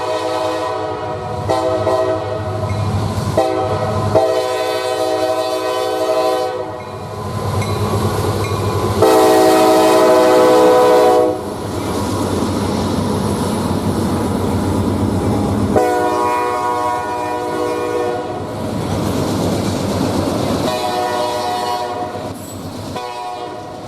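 Diesel freight locomotive's multi-note horn sounding a series of blasts, six in all, the loudest about nine seconds in, with the rumble and wheel clatter of the train between blasts.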